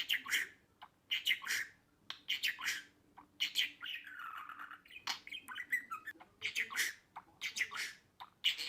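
Budgerigar chirping and warbling: many short, squawky chirps in quick succession, with a longer warbling phrase about halfway through.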